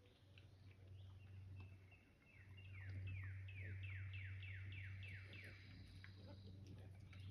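A songbird singing faintly: a run of about ten quick, falling whistled notes, with a thin high note near the end. A low steady hum lies underneath.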